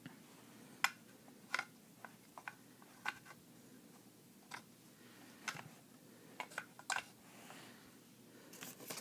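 Light, irregular clicks and taps from handling a Thomas Wooden Railway Switch Tower toy, about a dozen spread over several seconds.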